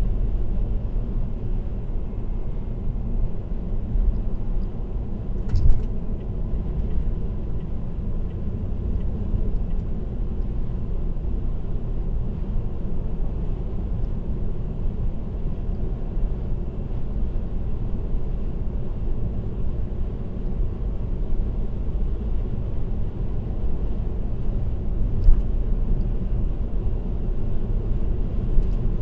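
Steady road and tyre noise with a low rumble from a car cruising on an expressway, with a brief thump about six seconds in and another near the end.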